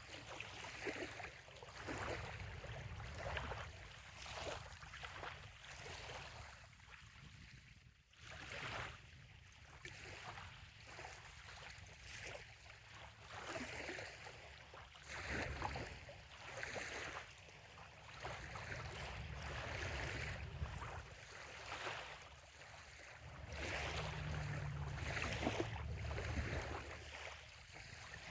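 Small waves lapping at a sandy bay shoreline, a soft splash every second or two, over a low rumble.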